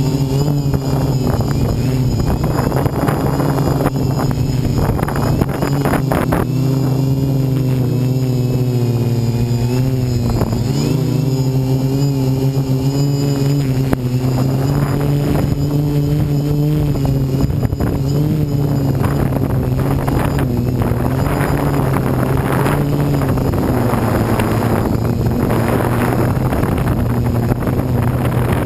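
DJI Flame Wheel 450 quadcopter's brushless motors and propellers whirring close up, their pitch wavering up and down as the flight controller holds the craft steady, with gusts of wind on the microphone.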